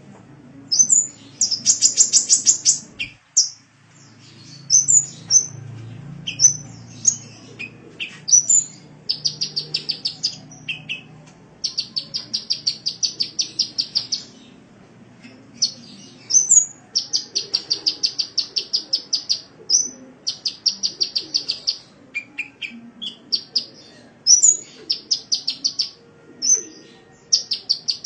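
Sunbird song: high, thin chirps mixed with quick trills of evenly repeated notes, about six a second, each trill lasting one to three seconds.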